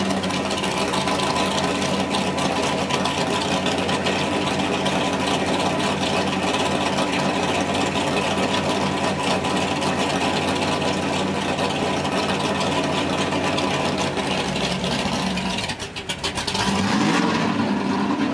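Car engine idling steadily, heard from inside a car's cabin. About sixteen seconds in the sound dips briefly and the engine note changes.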